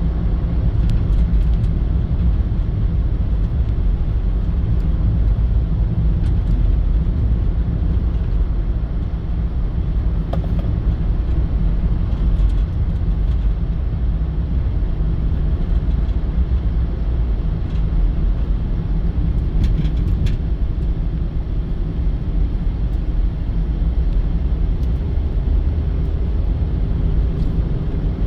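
Steady low rumble of a moving vehicle's road and engine noise, unchanging throughout, with a few faint clicks.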